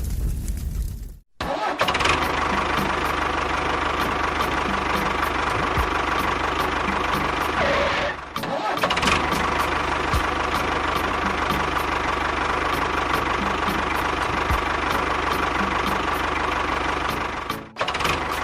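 Small motor of a DIY mini tractor running steadily, with a regular ticking running through it. The sound drops out abruptly three times and picks up again each time.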